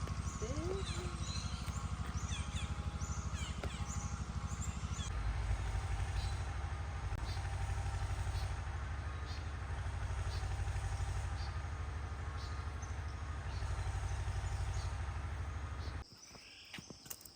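A vehicle's engine running with a fast, even low pulse; its note shifts about five seconds in and it cuts off suddenly near the end. Over the first few seconds a small bird gives a run of short, high chirps.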